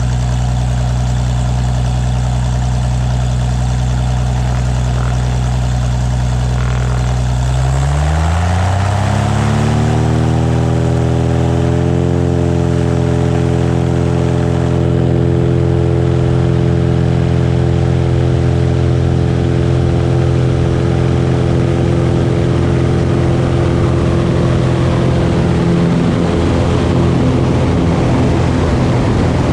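Cessna 182's piston engine and propeller running at idle, then throttled up about eight seconds in. The pitch rises smoothly over about four seconds and holds steady at high power.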